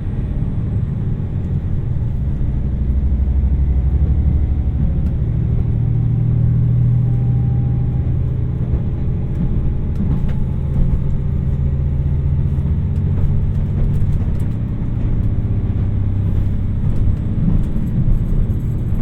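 JR Shikoku 2700 series diesel railcar heard from inside the cabin while running: a steady low diesel engine drone over wheel and rail rumble. The engine note swells a few seconds in and eases off later.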